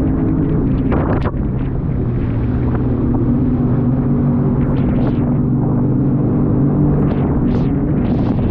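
Jet ski engine running steadily at speed, its pitch shifting a little about a second in and then holding, with wind buffeting the microphone.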